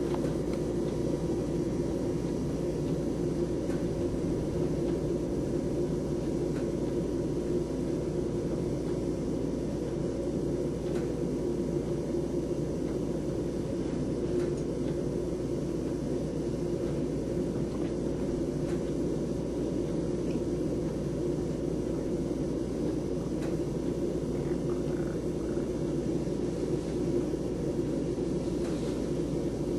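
Storm wind blowing steadily, a constant low rumbling noise with no clear gusts.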